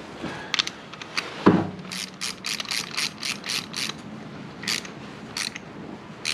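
Ratchet wrench clicking as it is swung back and forth, tightening a new spark plug into the tractor engine. There is a knock about a second and a half in, then a quick run of clicks, about four a second, and a few slower clicks near the end.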